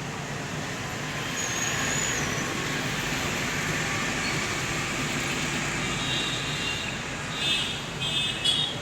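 Steady background road traffic noise, with one short high whistle about a second and a half in and a few brief high chirps near the end.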